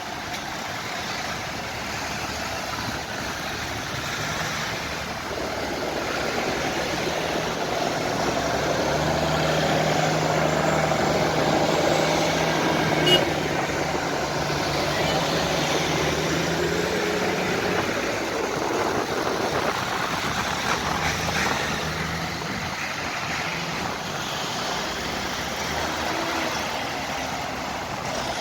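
Tractor engine running steadily, swelling as it draws near and easing off again as it passes, with a single sharp click about halfway through.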